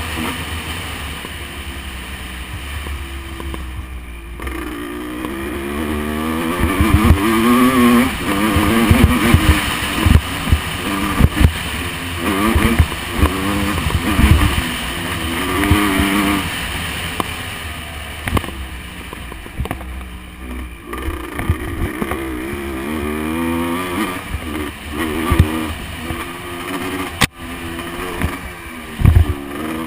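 Motocross bike engine revving up and down again and again as it works through the track, with heavy wind buffeting and frequent low thumps. A single sharp click comes near the end.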